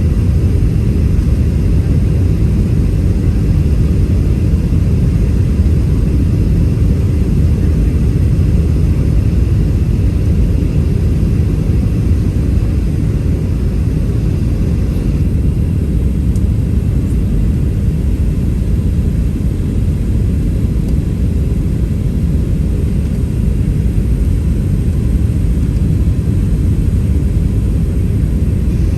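Steady low rumble inside the cabin of a Boeing 737-700 airliner, from its CFM56-7B engines and the airflow over the fuselage, with no changes in pitch or level.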